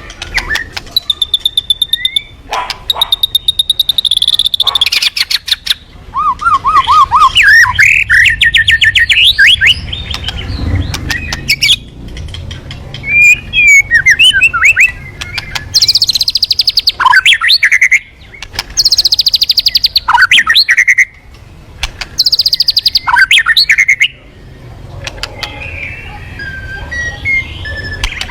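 Murai songbird singing a loud, varied song: rapid trills, clear sliding whistles and fast chattering phrases in bursts of a second or two with short pauses, trailing off to quieter notes near the end.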